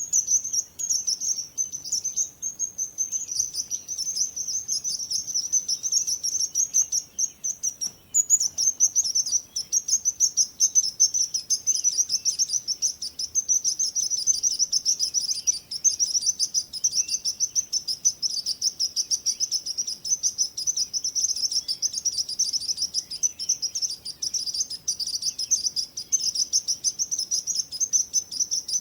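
Small birds chirping rapidly and continuously, a dense high-pitched chatter that dips briefly about eight seconds in.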